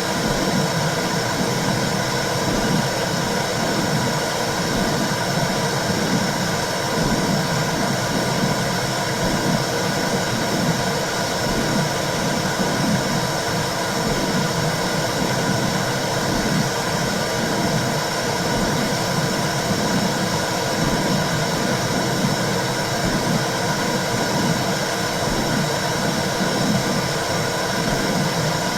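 Womb sound for soothing a baby: a steady whooshing noise with a low pulse about once a second, like a mother's heartbeat and blood flow heard from inside the uterus.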